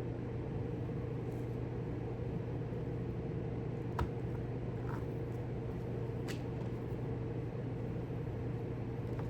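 Steady machine hum in a small room, with two faint light clicks about four and six seconds in.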